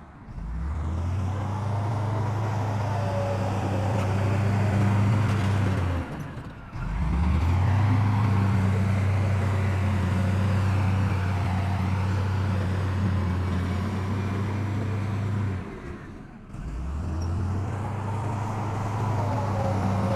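Heavy diesel engine of earthmoving machinery running steadily with a low hum. The sound breaks off briefly about six and sixteen seconds in, then resumes.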